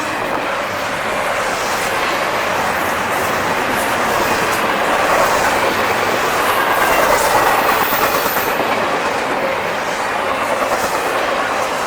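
Intermodal freight cars (double-stack and piggyback) rolling past on the rails: a steady rumble of steel wheels with clickety-clack over the rail joints. A brief high wheel squeal comes about eight seconds in.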